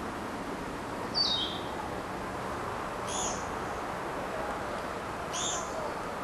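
Narcissus flycatcher singing: a short whistled phrase stepping down in pitch about a second in, then two brief high phrases a couple of seconds apart.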